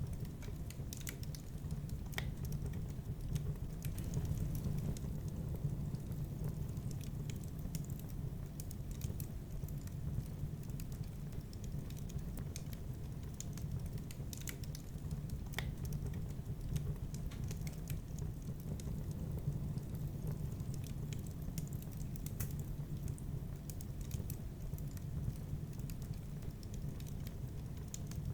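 Wood fire burning in a fireplace: irregular sharp crackles and pops scattered over a steady low rumble.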